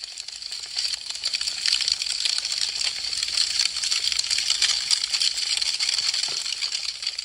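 Wood fire crackling, a dense rapid stream of sharp pops and snaps that swells up over the first second or two.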